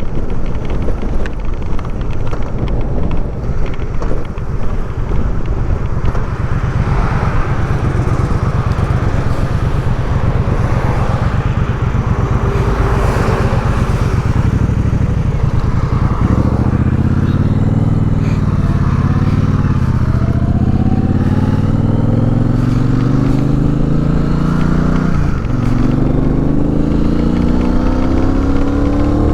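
Triumph Speedmaster 1200 parallel-twin engine running on the move with wind noise, holding a steady speed at first. From about halfway the engine pitch climbs in long rising sweeps, dipping briefly at a gear change before rising again, as the motorcycle accelerates through the gears.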